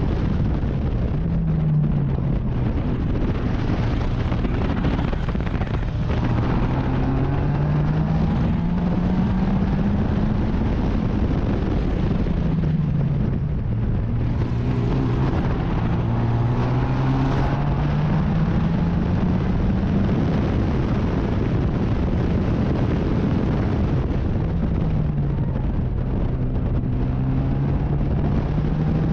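Racing car engine accelerating hard through the gears, its note climbing over several seconds and dropping at each gear change, over heavy wind and road rumble.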